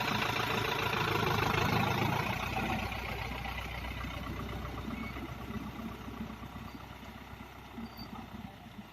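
A vehicle engine running steadily, growing gradually fainter after about two seconds.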